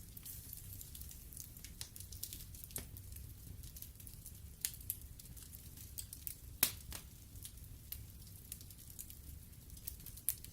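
Wood fire in a fireplace crackling: irregular sharp snaps and pops from the burning logs over a low steady rumble, the loudest pop about two-thirds of the way through.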